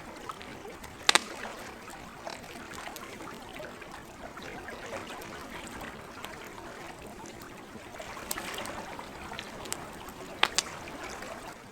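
Wood fire crackling with scattered sharp pops, the loudest a quick double pop about a second in and another near the end, over the steady lapping of lake water.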